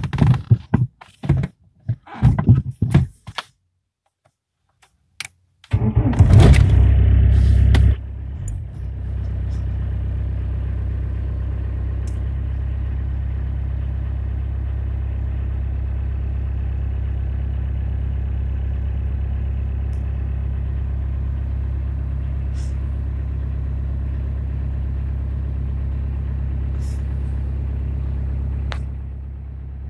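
A few short knocks and rattles, a pause, then about six seconds in the Volkswagen Golf Mk2 GTD's 1.6-litre turbo-diesel engine starts from cold. It runs loud for about two seconds, then settles into a steady idle.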